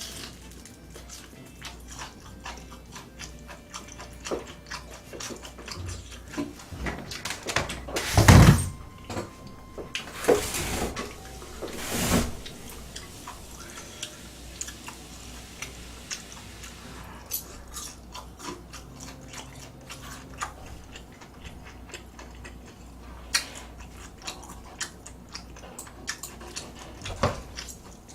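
Close-up eating sounds: chewing with many small clicks of utensils and dishes, and three louder noisy surges about eight, ten and twelve seconds in.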